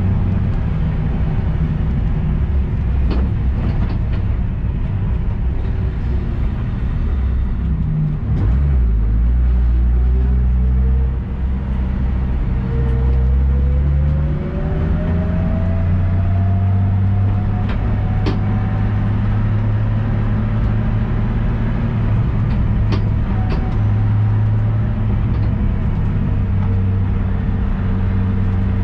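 Built single-turbo BMW S55 inline-six in a track-prepped M4 running hard. Its pitch climbs slowly over several seconds in the middle, with two brief dips in loudness.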